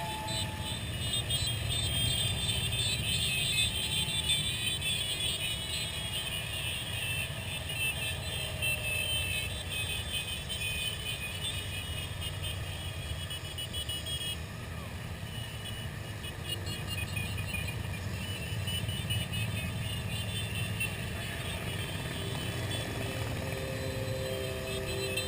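Many motorcycle engines running together in a large procession, a steady low rumble without a break, with voices in the crowd mixed in.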